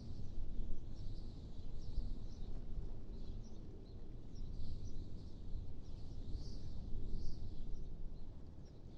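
Wind blowing in uneven gusts, with small birds chirping briefly and repeatedly high above it.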